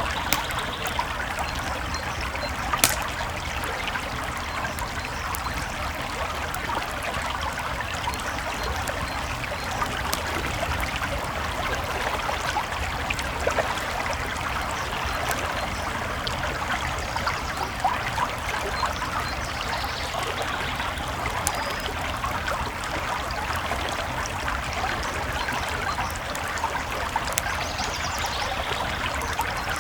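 Creek water flowing and trickling steadily, with a wood campfire crackling over it in scattered small pops and one sharper pop about three seconds in.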